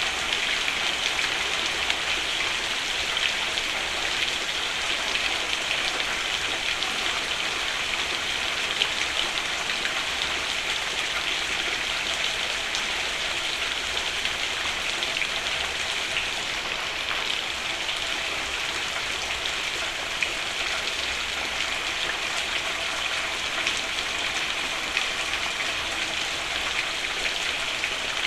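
Steady rain falling on a roof, a dense even hiss with many small drop impacts.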